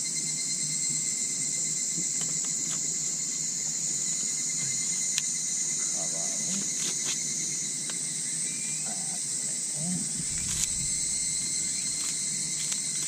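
Steady chorus of night insects such as crickets: a continuous high shrill with a couple of thin steady trills underneath, and a few sharp clicks scattered through it.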